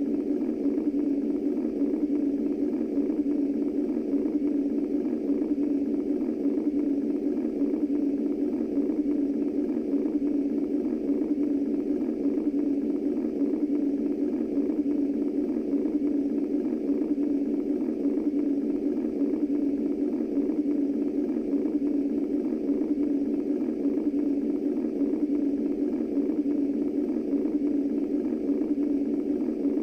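Steady womb-style white noise: a low, muffled, unchanging hum-like noise centred in the low-mid range, as played by a baby sleep sound machine.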